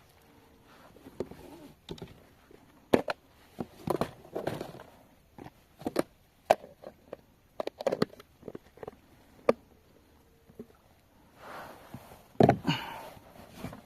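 Irregular clicks, knocks and rustling from gear being handled on a kayak, with a louder scraping burst near the end.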